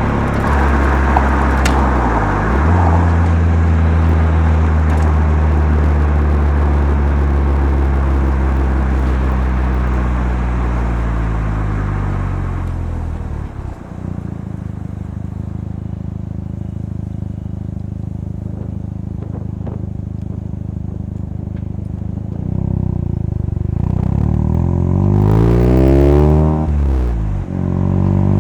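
Mazda RX-7 FC3S's turbocharged 13B twin-rotor rotary engine, breathing through a Knight Sports Legal Sports aftermarket muffler, heard on board while driving. There is a quick gear change a couple of seconds in, then a steady cruise. About halfway through the revs fall away to a lower steady drone, and near the end the engine revs up with another brief gear change before climbing again.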